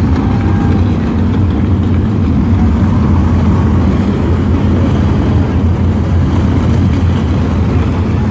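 Sprint cars running laps on a dirt oval, their engines blending into one loud, steady drone.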